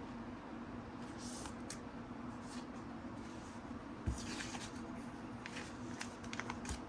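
Faint handling of trading cards: quiet rustles and small ticks as cards slide against each other, with a soft knock about four seconds in, over a faint steady hum.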